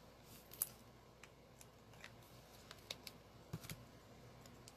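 Faint, scattered small clicks and taps of hands handling paper pieces and a glue pen while assembling a paper tree on a craft table, over near-silent room tone.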